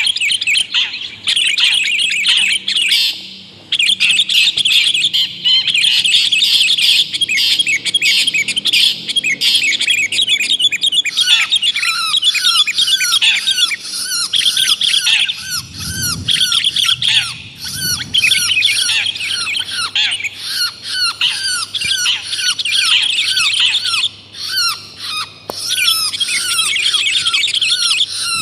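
Long-tailed shrike and sooty-headed bulbul calls mixed into one continuous lure recording: a dense run of harsh, rapid chattering calls. From about eleven seconds in, a regular series of short, lower notes, each dipping in pitch, repeats alongside.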